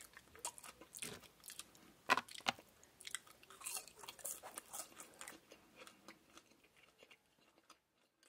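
Close-miked chewing of a mouthful of French fries: many short crisp, wet mouth clicks and smacks, thinning out and dying away near the end.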